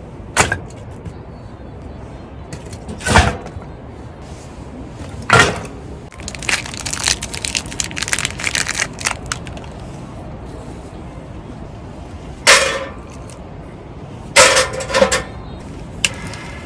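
A series of separate sharp knocks and cracks, with a run of rapid clattering in the middle, over a steady background hiss.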